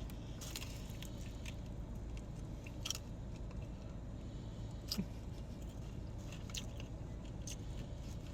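A person chewing a mouthful of a cheesy garlic pepperoni bite, heard as a few faint, soft clicks and smacks over a steady low hum.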